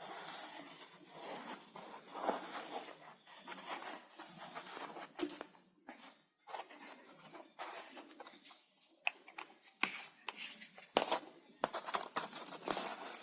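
Cut plastic bottle pieces being handled and fitted together while they are glued: faint rustling and crinkling with scattered clicks and taps, which come more often near the end.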